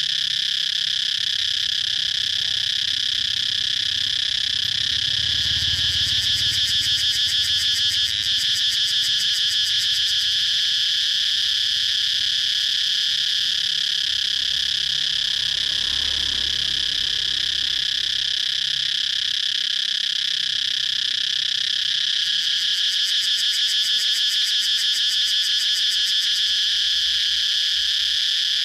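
Cicadas calling in a steady, high, buzzing drone that takes on a rapid pulsing twice, a few seconds in and again near the end.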